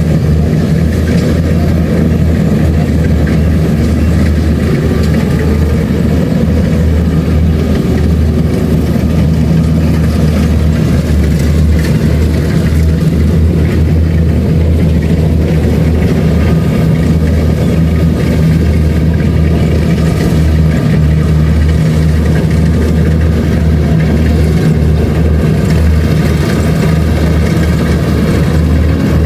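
Kubota DC-70 Plus combine harvester's diesel engine running steadily at a constant speed, a loud, even hum with no change in pitch.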